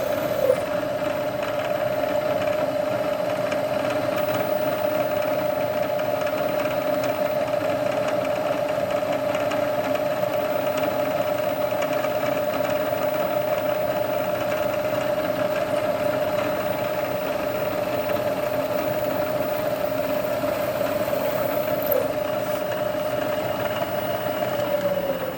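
Machine tool spindle and motor running at steady speed with a constant whine while center-drilling, then switched off at the very end, its pitch starting to fall as it spins down.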